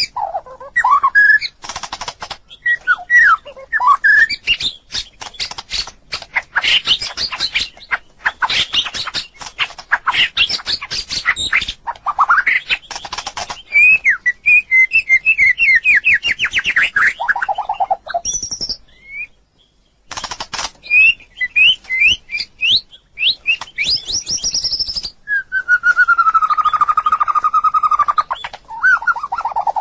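White-rumped shama singing a varied song of rapid chattering notes, fast trills and clear whistles. There is a short pause about two-thirds of the way through, and a long whistled note held for about three seconds near the end.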